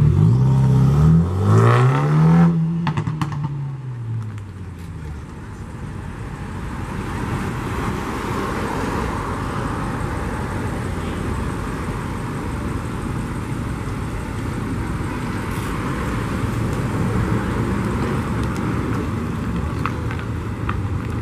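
A car engine revved twice, its pitch rising and falling, in the first few seconds, then dying away into a steady rushing background noise.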